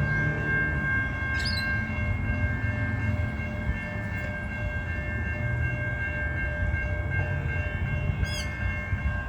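Train on the line at a railway crossing: a steady low rumble under several unbroken high ringing tones. Two short chirps come about a second and a half in and again near the end.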